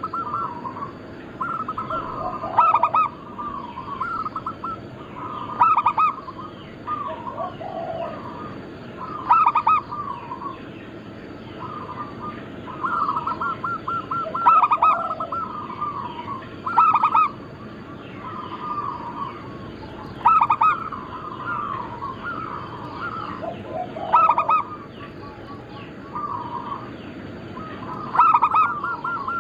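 Several zebra doves (perkutut) cooing, their songs overlapping: phrases of rapid trilled notes, some ending in lower coos, repeating every few seconds.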